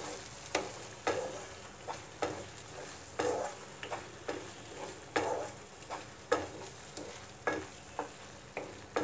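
A wooden spatula stirs and scrapes a thick tomato-coconut masala around a nonstick kadai, one scrape about every second, over a soft sizzle. The water has cooked off and the oil has separated, so the paste is now frying in its oil.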